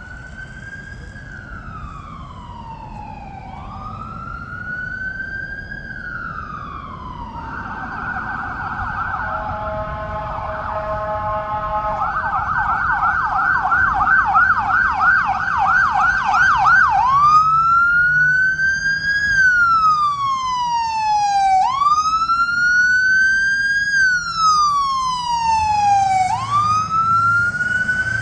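Electronic siren of a responding fire apparatus: a slow rising and falling wail, then a rapid warble near the middle, then a fast yelp at about four sweeps a second, then back to the wail. It grows steadily louder as the vehicle approaches.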